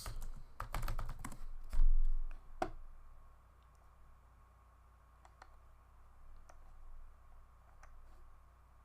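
Typing on a computer keyboard: a quick run of keystrokes for the first few seconds, with a low thump about two seconds in, then a few scattered single key clicks.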